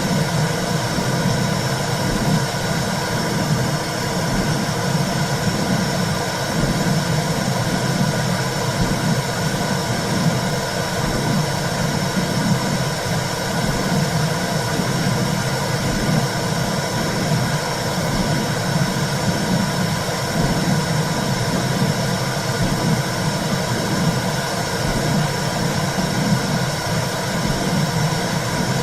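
Womb sound for soothing a baby: a steady low whooshing rumble with a regular pulse swelling roughly once a second, like blood flow and a heartbeat heard from inside the womb.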